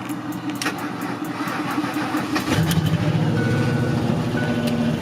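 Pickup truck engine cranking on the starter, then catching about two and a half seconds in and running. Once it runs, a warning chime beeps about once a second.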